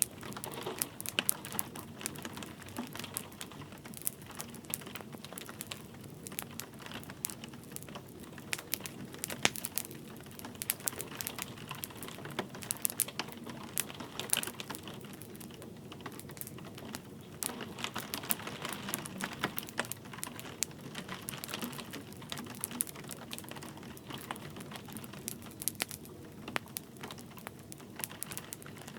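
Wood fire crackling with irregular sharp pops, over a steady hiss of light rain.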